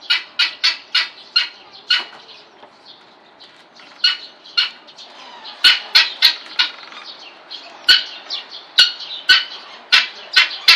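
Vulturine guineafowl calling: a rapid series of short, sharp, squawking notes, about three a second. The calls come in bouts, thinning out in the middle and growing louder and faster again from about halfway.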